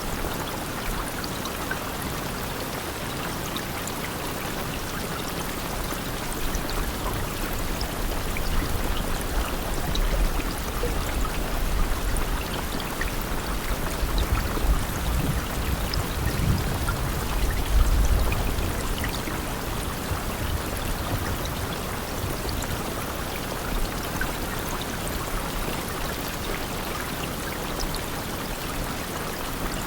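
Steady rainfall: an even hiss of falling rain with scattered single drop ticks. A deeper low rumble swells in the middle and is strongest a little past halfway.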